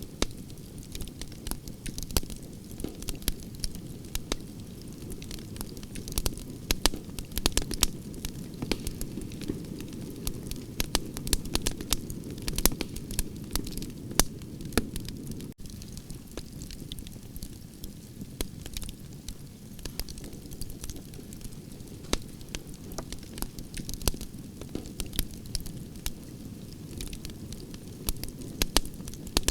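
Campfire of burning branches crackling, with frequent sharp pops and snaps over a steady low rumble of the flames.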